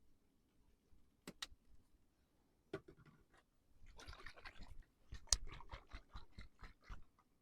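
Objects being handled: two sharp clicks about a second in, another click, a short rustle, then a quick run of clicks and taps.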